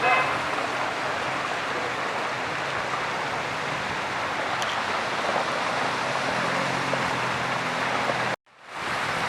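Floodwater rushing in a steady, unbroken wash of noise. The sound cuts out abruptly for about half a second near the end, then resumes.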